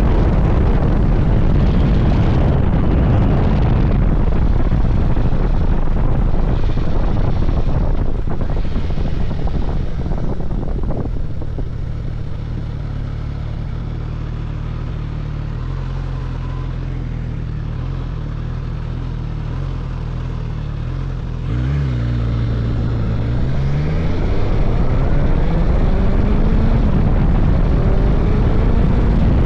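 Suzuki GSX-S1000GT inline-four motorcycle engine with wind rush while riding, easing off about a third of the way in to a steady low engine note for some ten seconds. Near the end it revs and pulls away, its pitch rising as it accelerates.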